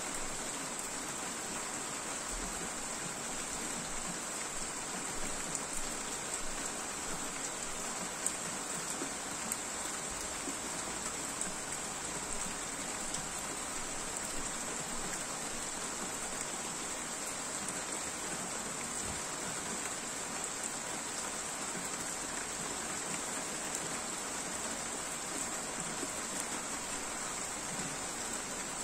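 Steady rain falling, an even hiss with a few scattered louder drip ticks.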